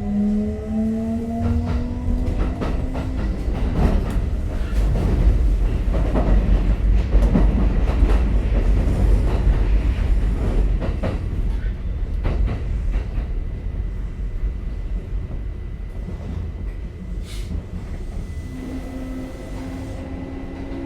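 Running sound inside a Kintetsu 5800 series electric train. The traction motors' whine rises in several pitches as it accelerates, then gives way to a loud low running rumble with clicks of the wheels over rail joints, and a new rising whine starts near the end.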